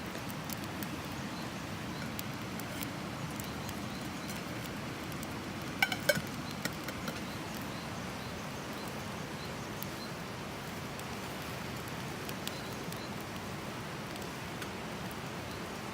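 Wood fire crackling with scattered sharp pops over a steady low rumble, and a brief ringing metallic clink about six seconds in.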